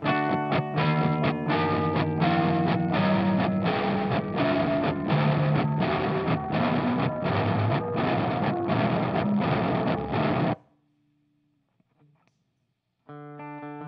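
Electric guitar played through a Catalinbread Bicycle Delay pedal with a gritty, driven tone, picked notes coming about three a second. It cuts off suddenly about ten seconds in, and after a couple of seconds of near silence the playing starts again near the end.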